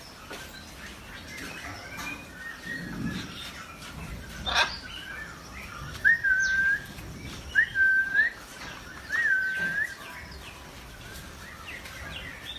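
Birds chirping and calling, with three loud, clear whistled notes about one and a half seconds apart in the middle, each held briefly and rising at the end.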